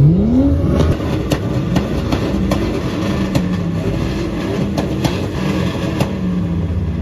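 A vehicle engine revving up sharply at the start, then running with its pitch rising and falling, with sharp cracks scattered through.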